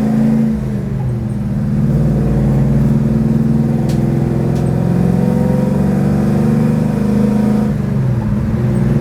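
Chevelle wagon's 427 V8 accelerating on the freeway: the engine note drops at an upshift about a second in, climbs steadily, then drops again at a second upshift near the end, the shift into fourth gear.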